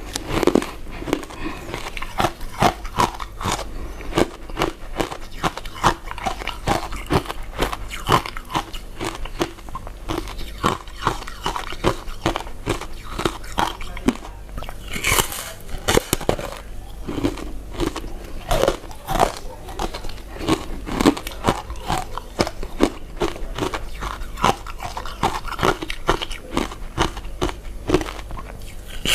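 A person chewing and biting soft, chewy glutinous rice desserts, a dense, continuous run of short mouth clicks.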